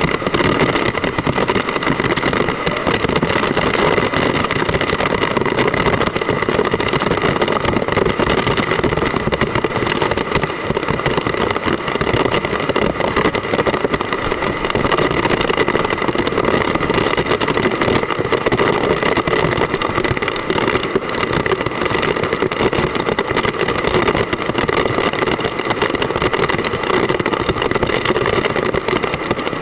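Heavy typhoon rain and strong wind, a loud, steady rush.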